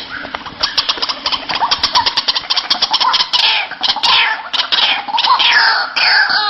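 White-breasted waterhen (ruak-ruak) calling: a fast run of harsh clicking notes, about ten a second, that turns about halfway through into repeated loud falling croaks.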